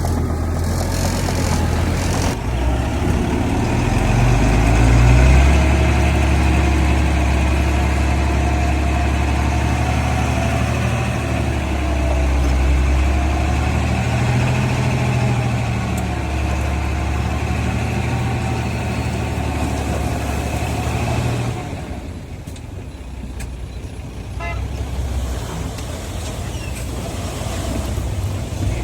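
Heavy diesel earthmoving machine running hard, a steady low drone with a high whine over it, easing off and quieter a little over 21 seconds in.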